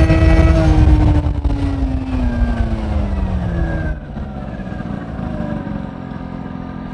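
Honda Spree's 50cc two-stroke scooter engine running through an S23 aftermarket exhaust, its note falling steadily as the revs drop off over the first four seconds. It then settles lower and quieter, with wind rumble on the microphone at first.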